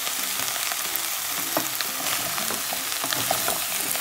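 Cubed chayote, corn, almonds and onion sizzling in butter and oil in a frying pan, with a spatula stirring them and scraping and clicking against the pan now and then.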